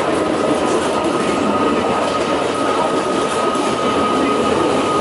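Matterhorn Gotthard Bahn metre-gauge electric train rolling past: a steady rumble of wheels on rails, with a thin steady high whine.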